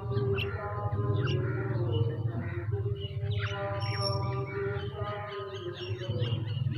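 Mynas and other birds squawking and chirping in quick, overlapping calls, over background music with held tones and a steady low drone.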